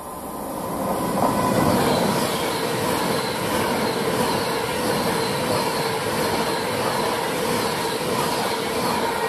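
A train running past on the railway line, growing louder over the first two seconds and then holding steady: a dense rush of wheels on rail with a steady whine running through it.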